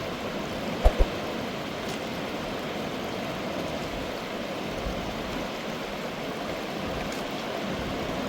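Mountain river rushing steadily, with two brief knocks about a second in.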